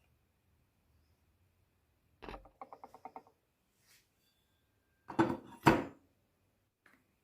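Hard objects being handled: a knock and a short rattling run of quick ringing clicks, then two loud sharp knocks about half a second apart.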